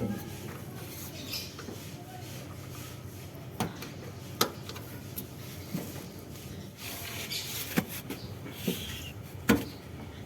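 Hand tools and metal parts clicking and knocking together during work on a car's fuel filter, with light rubbing and scraping between the knocks. The knocks come one at a time, a second or so apart, over a steady low hum.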